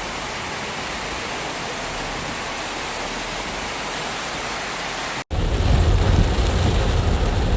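Steady hiss of heavy rain. About five seconds in, after a sudden cut, it turns into a louder downpour with a deep rumble underneath.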